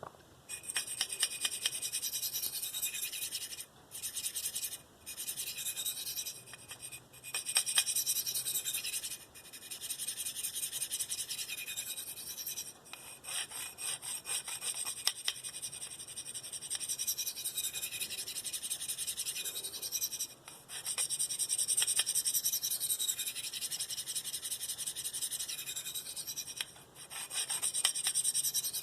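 S30V steel knife blade stroked along a Spyderco 302M medium ceramic bench stone: a high, scraping rasp in quick back-and-forth passes, with brief pauses between sets. This is the stage of raising a burr on the medium stone.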